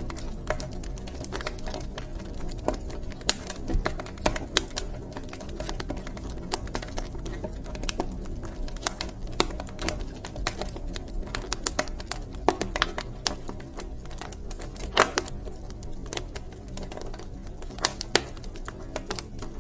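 Wood fire crackling in a fireplace: irregular sharp pops and snaps, several a second, over a steady low hum of burning.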